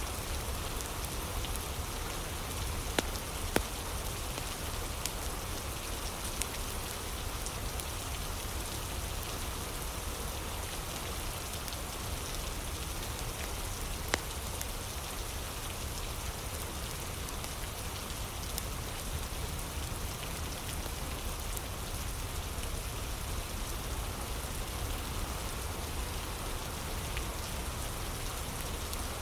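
Steady rain falling, with a few sharp crackling pops from a wood fire: two close together about three seconds in and one near the middle.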